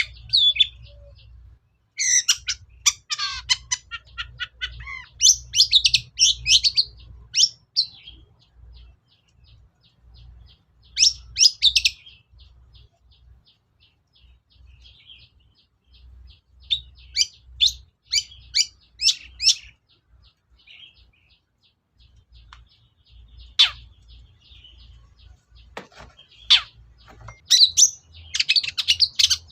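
Long-tailed shrike (cendet) singing: loud bursts of fast, varied chattering and whistled notes separated by short pauses, with a falling whistle about two seconds in. A faint, quick, even ticking runs under the quieter stretches.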